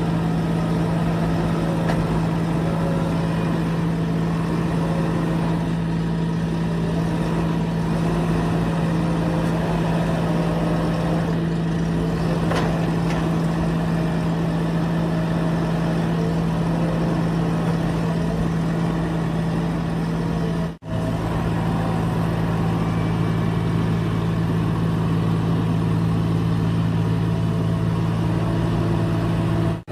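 Diesel engine of a heavy machine running steadily with a low, even drone. About two-thirds of the way through it cuts out for an instant, and when it returns the low note has changed.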